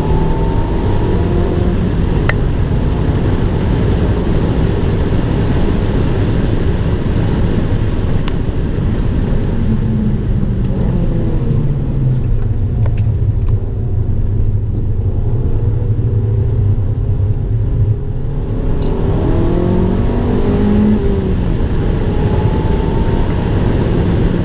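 Abarth 595 Turismo's turbocharged 1.4-litre four-cylinder engine running hard on track, the revs climbing and dropping with gear changes and corners.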